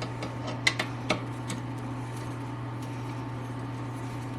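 A few light metallic clicks in the first second and a half as a skid-plate bolt with a lock washer is worked loose with a T-handle socket, over a steady low hum.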